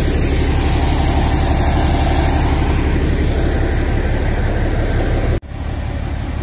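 Steady rumble and hiss of a Kangra Valley narrow-gauge train, heard from on board. It breaks off abruptly about five seconds in and carries on a little quieter.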